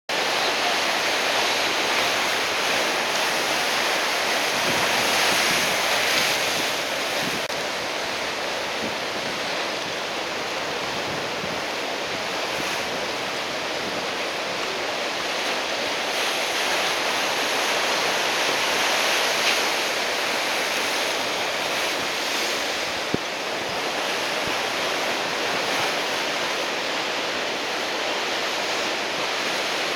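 Heavy typhoon-swell surf breaking continuously: a steady wash of noise that swells a little every several seconds as waves break.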